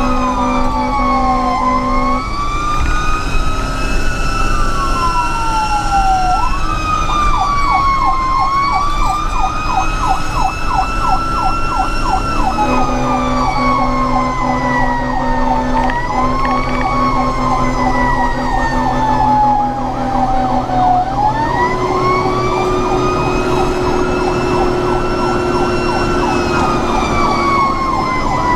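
Fire engine sirens on an emergency response: a slow wail rising and falling every few seconds, with a rapid yelp cycling over it at times.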